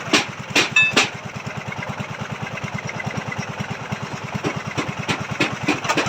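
Small engine of a machine-powered earth auger for boring strauss pile foundation holes, running with a fast, even putter. Sharp knocks three times in the first second and a few more near the end.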